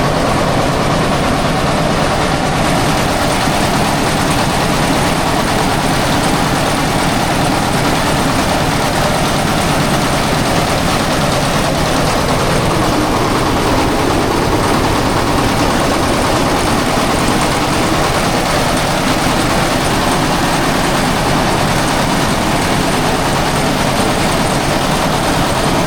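Engine-driven threshing machine running loudly and steadily, a continuous mechanical din with a slight wavering in pitch around the middle.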